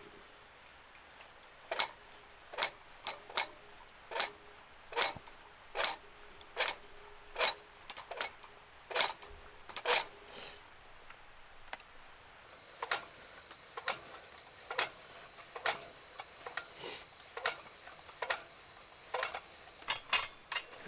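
A series of sharp taps or knocks, about one a second, some with a short ringing tail, with a brief pause near the middle.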